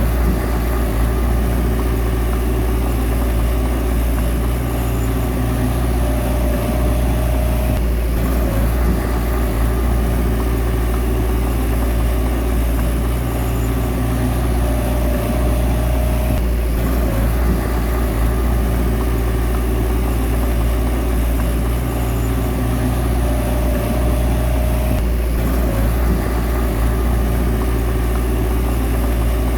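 Komatsu bulldozer's diesel engine running steadily under work, with a higher steady tone that comes in for a couple of seconds three times.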